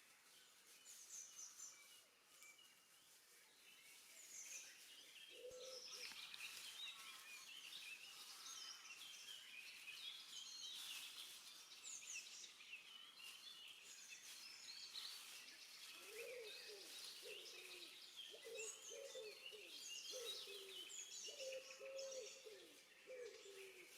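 Faint early-morning chorus of woodland songbirds, many short chirping phrases from several birds at once. From about two thirds of the way in, a lower, repeated cooing call joins them.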